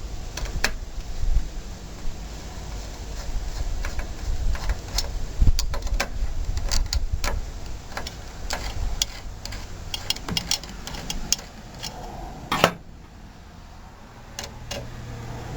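Irregular metallic clicks and small knocks of a hand tool working on a small mower engine as the two screws holding the carburetor intake tube are taken out, with one louder click near the end.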